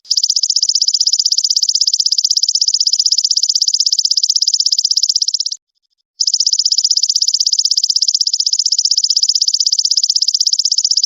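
Belalang emas insect calling: a loud, high-pitched, rapidly pulsing trill that breaks off for about half a second midway, then resumes.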